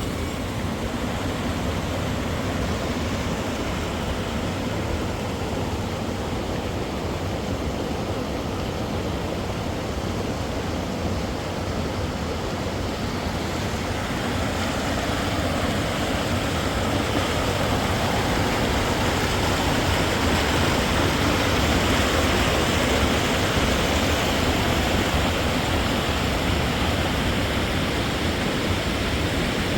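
Steady rushing noise with no distinct events, growing a little louder about halfway through.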